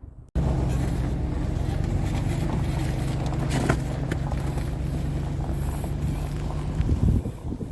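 A truck's engine running steadily at a loud, even pitch, cutting in suddenly just after the start and dropping away about seven seconds in.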